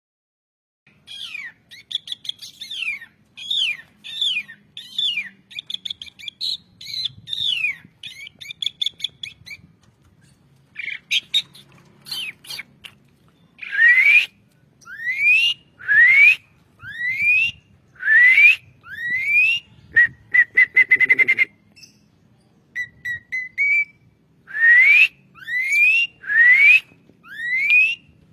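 Asian pied starling singing: a string of whistled and chattering notes, then a series of loud rising whistles about one a second, broken once by a quick run of short repeated notes.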